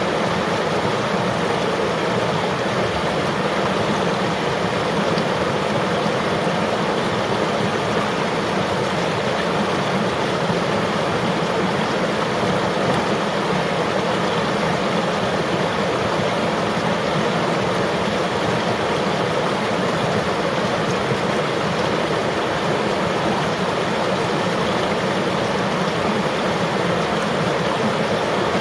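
River water flowing and rushing over rocks: a steady, even rush with no breaks.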